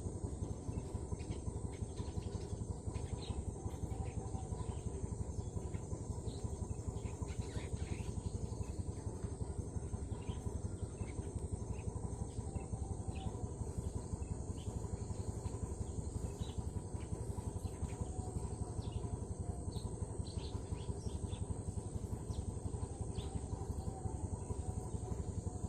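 Eurasian tree sparrows chirping: many short, scattered chirps over a steady high hiss and a steady low hum.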